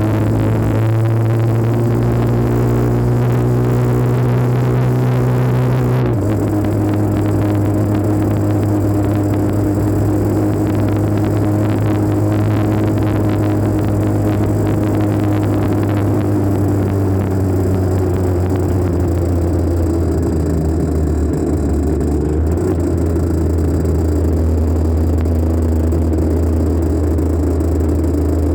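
Two-stroke engine of a 1984 Honda CR80R dirt bike running while the bike is ridden, heard through a phone on the bike's mount. Its note changes suddenly about six seconds in, then drifts slowly up and down with the throttle.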